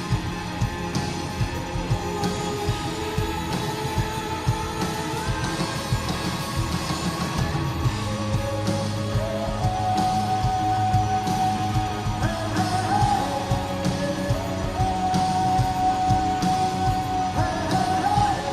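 Live rock band playing through a concert PA, with a steady pounding drum beat, sustained guitar and keyboard tones and a voice singing.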